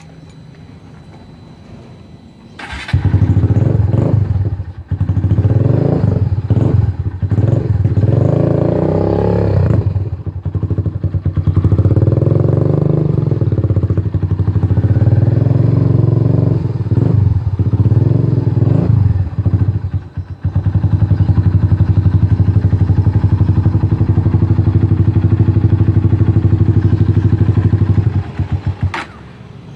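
Kawasaki W175 Cafe's single-cylinder engine starts about three seconds in and is revved repeatedly through its exhaust, pitch rising and falling with each blip. It then settles into a steady run before cutting off near the end.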